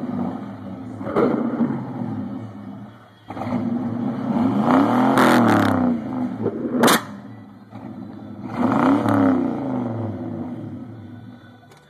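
A Lincoln car's engine being revved, its pitch climbing and falling back in swells around five and nine seconds in. There is a single sharp bang about seven seconds in.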